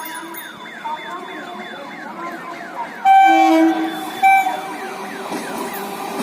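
EMU electric train horn sounding a longer blast about three seconds in and a short one just after four seconds, over train running noise that grows near the end. A rapidly repeating falling tone, about three a second, carries on through most of it.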